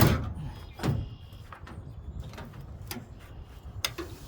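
Metal and plastic parts of a front-load washing machine being handled during a teardown: a loud clunk at the start, a second knock about a second in, then a few lighter clicks and taps.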